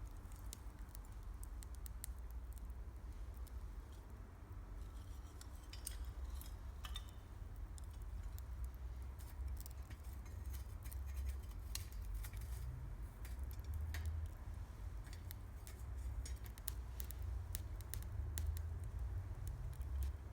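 Wood campfire crackling, with irregular sharp pops and snaps of the burning firewood, over a steady low rumble.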